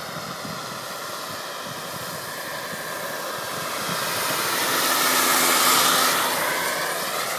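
Radio-controlled model helicopter flying, a steady rushing whine that grows louder through the middle and eases off near the end.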